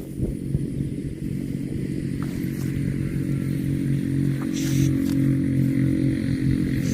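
A small engine running steadily, with a few light clicks and clatters over it.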